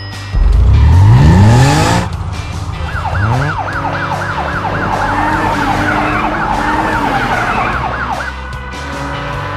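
An engine revving up sharply, rising in pitch for about a second and a half near the start. Then a fast warbling siren, about four wails a second, for some five seconds. A music bed plays underneath.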